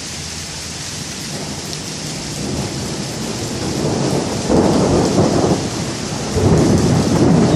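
Steady rain hissing, with thunder rolling in: a low rumble that builds through the middle and swells loudest in two surges, about halfway and near the end.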